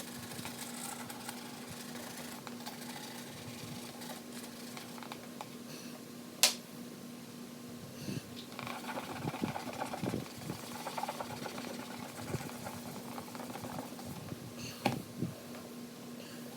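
Handling and wiping of a plastic light cover while it is polished, over a steady low hum: a sharp click about six seconds in, then several seconds of irregular rubbing and handling noise, with a few more clicks near the end.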